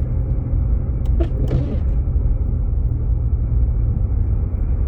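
Steady low rumble of a Jeep Grand Cherokee heard from inside the cabin as it drives on a snowy road, engine and tyre noise blended together.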